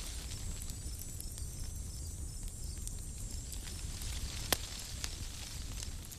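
Campfire crackling with scattered pops, one sharp pop about four and a half seconds in, over a steady low rumble. Insects chirp in a fast, regular pulse.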